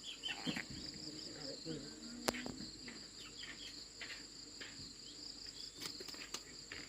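Steady, high-pitched chorus of insects, shrilling without a break, with a single sharp click about two seconds in and faint voices in the background.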